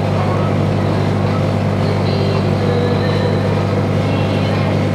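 Sightseeing boat's engine running at steady cruising speed, a loud, even low drone heard from aboard, with water and hull noise beneath it.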